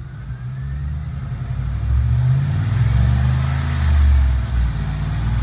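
2001 Lincoln Continental's InTech 32-valve V8 revved up from idle, climbing, easing off briefly and climbing again, heard from inside the cabin. Its exhaust runs without a muffler, which gives it a throaty note.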